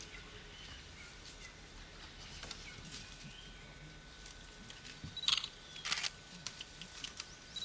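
Quiet open-air ambience with a few short, sharp bird calls, the clearest about five and six seconds in.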